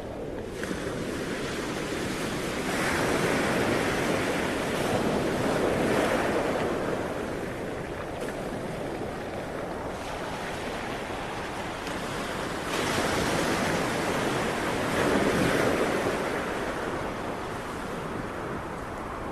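Sea waves breaking and washing on a shore. Two waves swell up and recede, one a few seconds in and another about two-thirds of the way through.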